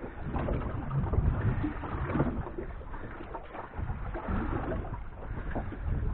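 Wind buffeting the microphone in uneven gusts, with water slapping against the hull of a small fishing boat at anchor.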